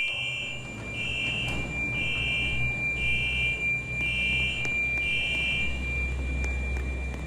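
Electronic buzzer or alarm beeping six times, about once a second, then stopping, over a steady high whine and a low rumble.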